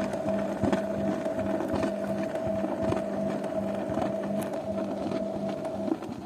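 Zanussi washing machine running, its drum motor giving a steady tone and hum while the drum turns with irregular clicks and knocks. The motor cuts out suddenly near the end.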